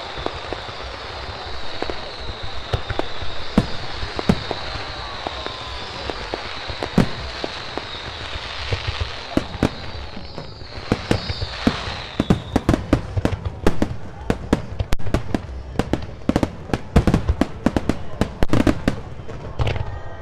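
Fireworks bursting overhead, scattered booms at first, then a dense rapid barrage of bangs and crackles in the second half. A high wavering tone runs under the first half and stops a little past halfway.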